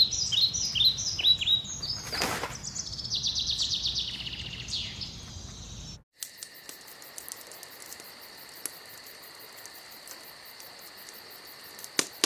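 Birds chirping in quick, repeated falling notes with a trill, interrupted by a short burst of noise about two seconds in. About six seconds in it cuts abruptly to a steady, high insect drone like crickets, with a single click near the end.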